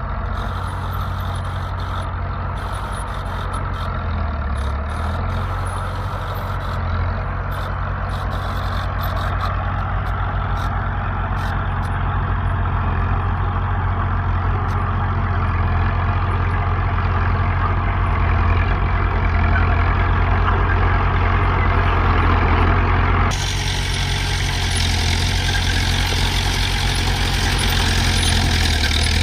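Diesel engine of heavy earthmoving machinery running steadily, a low drone that grows a little louder over the first twenty seconds; the sound changes abruptly about three-quarters of the way through.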